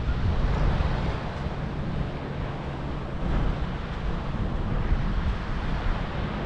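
Wind buffeting the microphone: a steady rumbling noise, a little louder in the first second.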